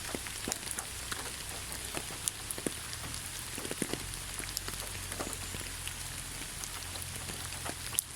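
Rain falling steadily in a forest, an even hiss with many separate drops pattering close by.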